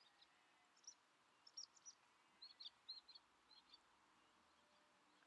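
Faint bird chirps: short high notes in small scattered groups, over quiet outdoor background noise.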